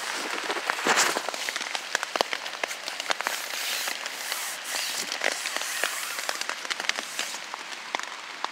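Rain falling on a tarp shelter: a steady hiss crowded with many sharp drop hits, one louder hit about a second in.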